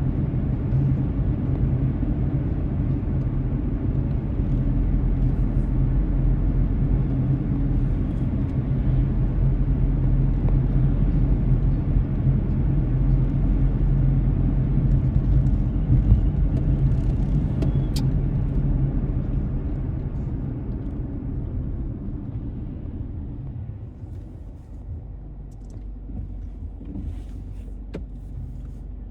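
A car driving, heard through a dashcam microphone: a steady low road and engine rumble that quietens over the last several seconds, with a couple of sharp clicks.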